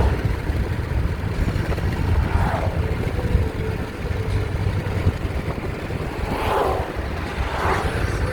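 Car cabin noise while driving: a steady low road-and-engine rumble, with a few faint swells that rise and fade.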